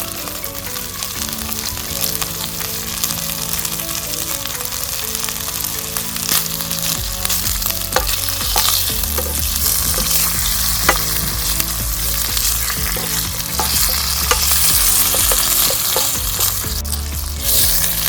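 Food sizzling in a frying pan while it is stirred, with scattered sharp clicks of the utensil against the pan. The sizzle grows stronger in the second half. Quiet background music runs underneath.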